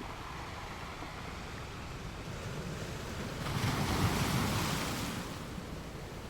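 Sea waves breaking against rocks: a steady wash of surf, with one wave surging in and crashing loudest about halfway through, then falling back.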